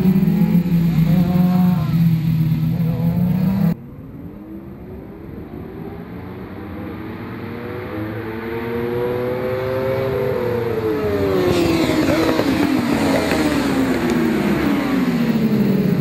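Racing superbikes' four-cylinder engines at high revs. About four seconds in, the sound cuts abruptly to a quieter, more distant engine note that grows steadily louder, its pitch climbing and dropping at gear changes, with several engines overlapping near the end.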